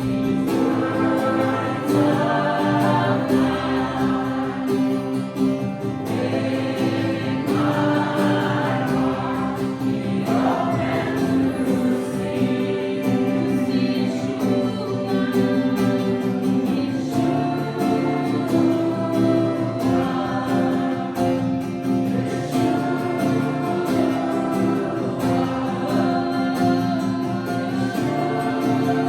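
Live worship music: many voices singing together over held instrumental chords.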